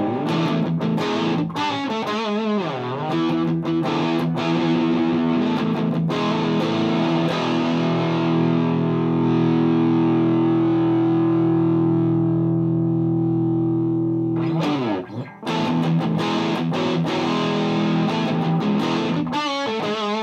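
Gibson Les Paul played through a Mesa Boogie Dual Rectifier on channel 2 Raw mode, set to 50 watts with tube rectification, presence up and bass down, into a Marshall 4x12 cabinet. High-gain distorted chords and riffs with string bends, a long chord left ringing through the middle, a brief break about three-quarters in, then more riffing.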